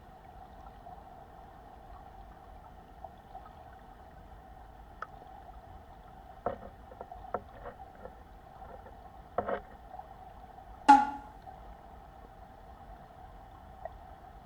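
A mountain stream running with a steady rush, with a few light knocks and one sharp clack about eleven seconds in.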